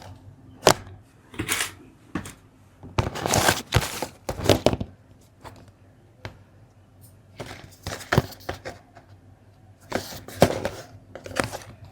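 Plastic building bricks being handled and snapped together: irregular sharp clicks and knocks, mixed with longer scraping, rustling stretches.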